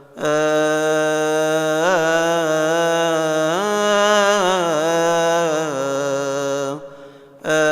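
A man's solo voice chanting a Coptic liturgical hymn, unaccompanied, holding one long melismatic phrase that winds up and down in pitch. He breaks off for a breath about seven seconds in and starts again at the end.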